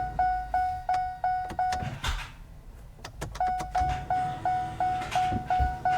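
Dodge Hellcat's dashboard warning chime, a single-pitched beep repeating about three times a second. It stops for about a second and a half near the middle, where a few sharp clicks are heard, then starts again, as the ignition is cycled to build oil pressure before starting.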